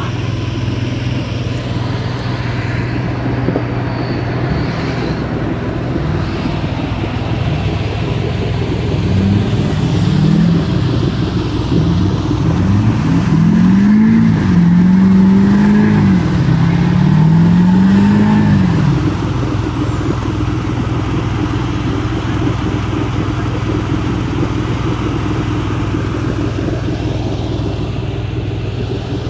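A vehicle engine idling steadily, then revved up and down in a series of revs for about ten seconds from roughly a third of the way in, before settling back to idle. It is the sound of a vehicle working to get a jeep stuck in mud out.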